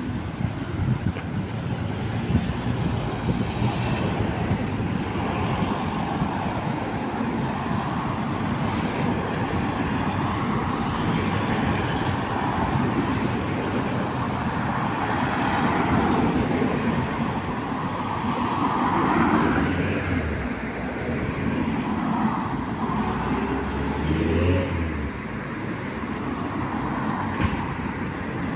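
Road traffic: cars passing by in a steady wash of engine and tyre noise, with one vehicle's pitch rising as it accelerates near the end.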